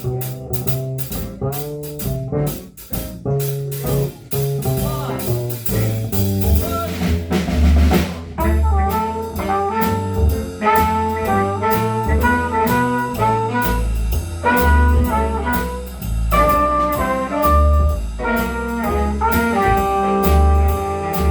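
Jazz band with brass section playing. A rhythmic drum-and-bass passage runs for about seven seconds, then a cymbal crash, and the horns come in with held chords that move from note to note.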